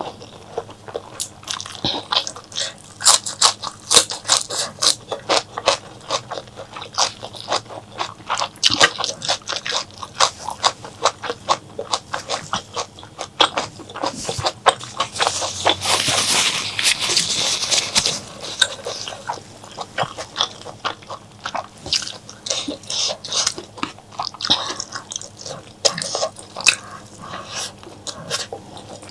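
Close-miked chewing and biting of mutton curry: rapid, irregular wet clicks and crunches. About halfway through there are a few seconds of denser, continuous noise.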